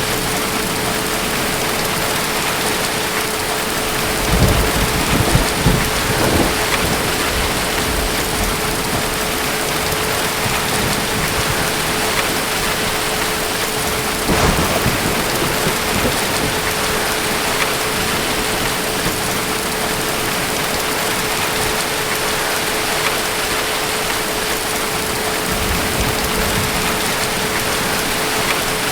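Steady rain with deep, low rolls of distant thunder, swelling about four seconds in, again around halfway, and near the end.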